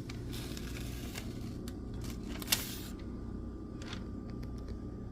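Steady low background hum with a few light clicks and taps, one sharper click about halfway through.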